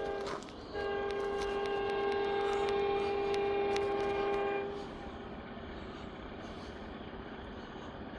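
Norfolk Southern locomotive air horn: a short blast, then a long chord of several tones held about four seconds. It stops about five seconds in, leaving a steady low rumble.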